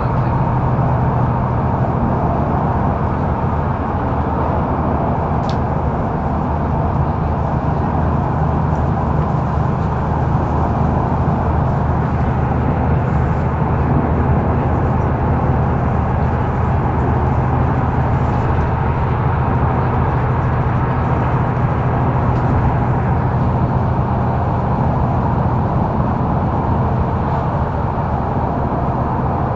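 Mercedes-Benz O530 Citaro facelift intercity bus heard from inside the passenger cabin while under way: the diesel engine drones at a steady pitch over road noise.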